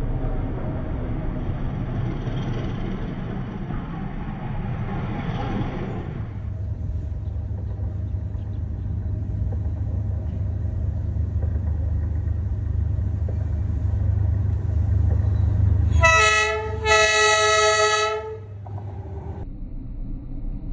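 A train rolls close past with wheels rumbling and rattling over the rails; then a D19E diesel-electric locomotive approaches, its low engine rumble growing louder. Near the end it sounds its horn twice, a short blast then a longer one.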